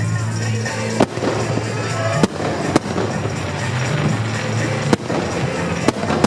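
Fireworks exploding: five sharp bangs at irregular intervals, over music with a steady bass line.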